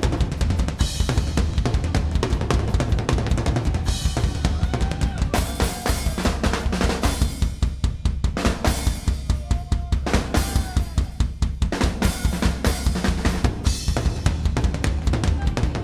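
A rock band playing live, with a driving drum-kit beat over bass; the kick and snare are loudest.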